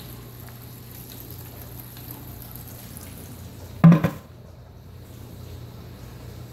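Two-drawer dishwasher running a wash cycle: a steady hum with water washing inside. One loud knock about four seconds in.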